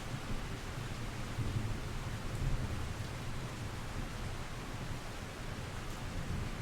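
Steady rain falling, with a low rumble of distant thunder that swells about two seconds in.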